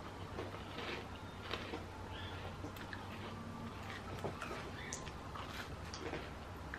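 Quiet, irregular crunching of a mouthful of Fruity Lucky Charms cereal being chewed.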